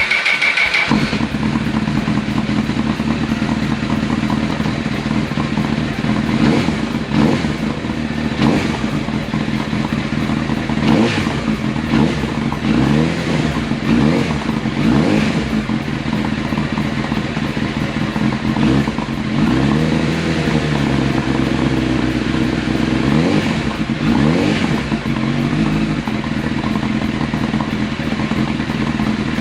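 Honda CBR1000RR SC57's inline-four engine breathing through a Mugen aftermarket exhaust. It settles to a steady idle in the first second, then runs through a string of quick throttle blips, the revs rising and falling again and again, before it returns to a steady idle near the end.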